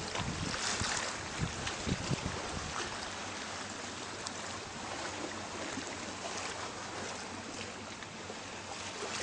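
Steady rushing noise of sea water and wind, with a few low thumps in the first two seconds.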